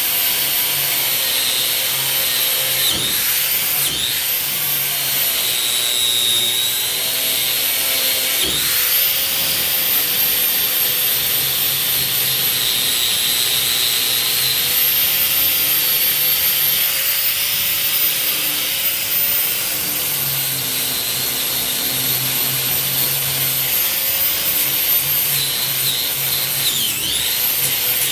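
Power tool spinning a cup-style wire wheel against painted, rusted steel, stripping paint and rust with a steady high whine and scratchy grinding. The whine dips briefly a few times as the wheel is pressed into the metal.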